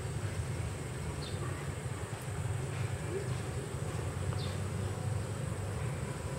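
A few short, high chirps from a baikole bird, faint and spaced a few seconds apart, over a steady low buzzing hum.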